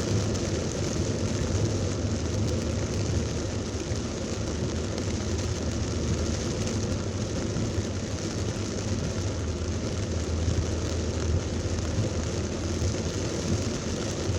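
Heavy rain pouring steadily during a thunderstorm, with a low, steady rumble underneath.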